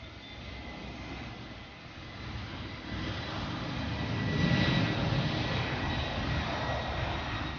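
Large jet aircraft's engines rumbling as it passes, growing louder to a peak about halfway through.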